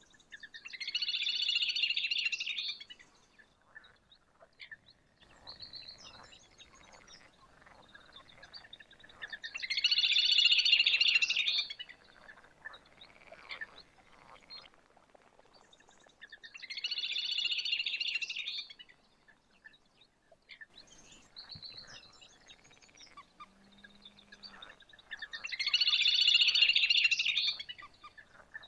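A bird singing a high trilling phrase about two seconds long, four times at roughly eight-second intervals, with fainter short chirps in between.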